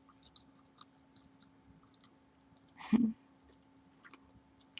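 Chewing gum worked close to the microphone, with small wet clicks and smacks. A brief, louder voiced sound comes about three seconds in.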